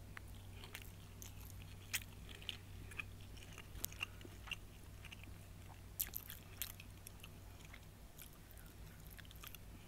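Close-up eating sounds: chewing a mouthful of meatloaf, rice and string beans, with scattered short clicks from the mouth and a metal fork on a foam plate. A low steady hum runs underneath.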